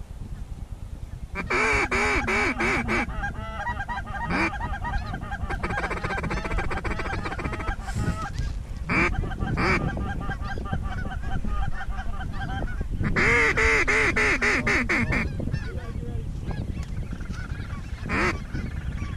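Goose honks and clucks, many calls in quick runs, loudest about a second and a half in and again about thirteen seconds in.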